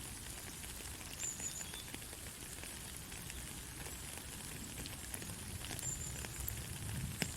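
Steady rainfall with scattered pattering drops. Two brief high chirps come through, about a second in and again near the end.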